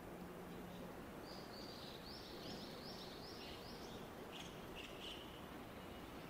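A small bird singing faintly: a run of about seven quick repeated high notes, then a few shorter, lower calls, over a steady background hiss.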